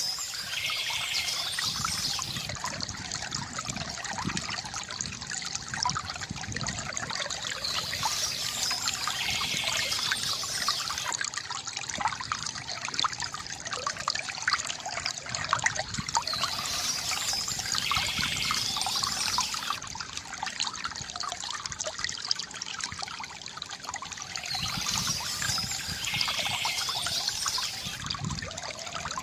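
Water from a bamboo fountain trickling and gurgling steadily into a pool, with a brief higher sound returning about every eight seconds.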